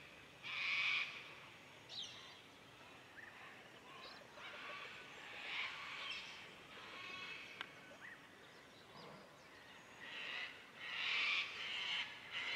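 Birds calling outdoors: a series of harsh, hazy calls, each about half a second to a second long, coming in a couple near the start, one around the middle and a cluster near the end, with a few short chirps between.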